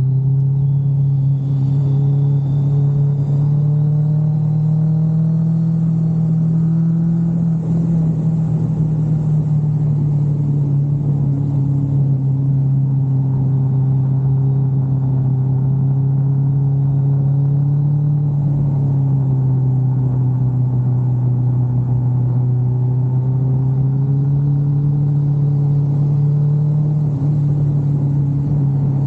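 Kawasaki GTR 1400's inline-four engine running steadily under way, its pitch drifting slowly up and down.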